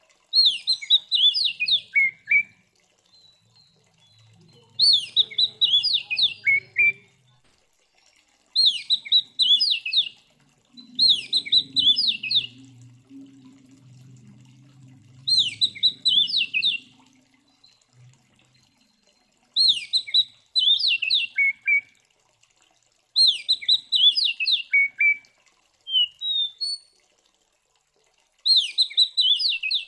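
Oriental magpie-robin (kacer) singing: short phrases of quick, sharp notes, each dropping in pitch at its end, repeated about every three to four seconds.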